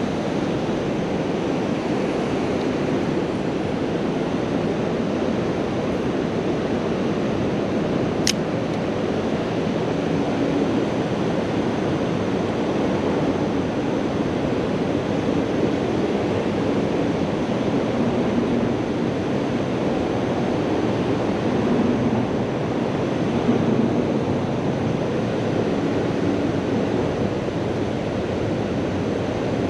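Steady rush of water pouring over a low-head river dam. One brief sharp click about eight seconds in.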